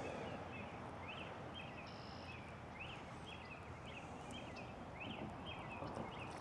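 Outdoor animal chorus: short high chirping calls repeating about two or three times a second over a steady low background hiss.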